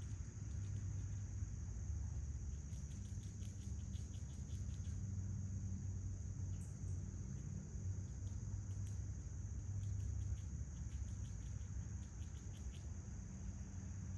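Backyard ambience: rapid high-pitched chirping, typical of crickets, comes in repeated short runs from about three seconds in until near the end, over a steady low hum.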